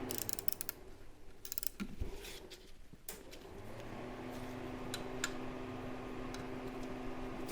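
Ratchet wrench clicking in short runs with a few metal clinks as a belt's adjustment bolt is tightened, over a steady low hum.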